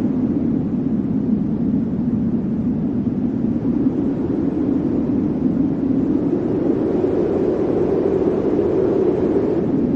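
Blizzard wind blowing steadily, a low rushing noise whose pitch sinks slowly and rises again near the end.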